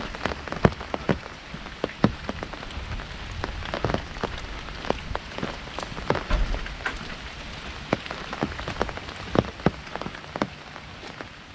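Heavy rain falling on an umbrella overhead: a steady patter with many louder single drops striking the canopy at irregular moments.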